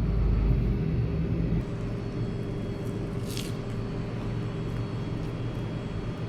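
Low engine rumble of a motor vehicle, louder for the first second and a half, then settling into a steady low hum of traffic. A short hiss about three seconds in.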